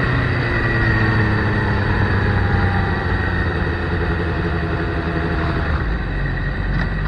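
Onboard sound of a motorcycle on a racetrack: the engine running under steady, heavy wind rush, its note easing slightly lower.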